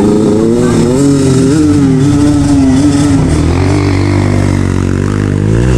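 Dirt-bike engine running under throttle, its pitch wavering with the throttle, easing to a lower note about three seconds in and climbing again near the end.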